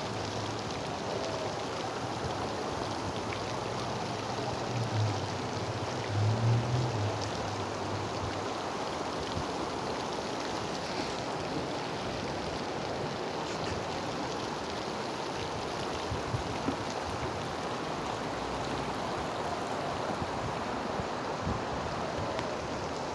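Heavy rain pouring down, a steady rushing hiss, with a low hum and a few louder bumps during the first third.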